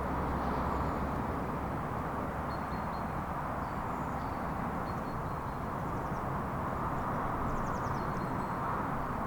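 Steady outdoor rushing noise with faint, scattered bird chirps, including a short high trill near the end.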